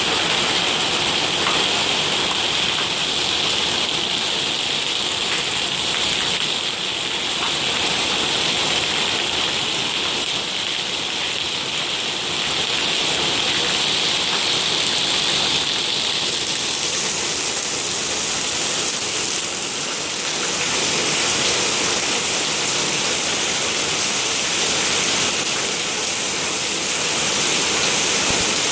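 Heavy rain falling in a steady, unbroken hiss, whose pitch shifts higher a little past halfway.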